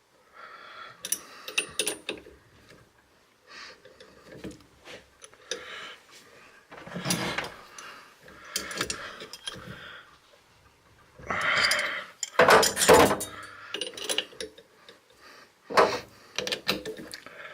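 Metal hand tools and parts clinking and clattering as they are handled on a workbench, in uneven spells of clinks and knocks, loudest about two-thirds of the way through.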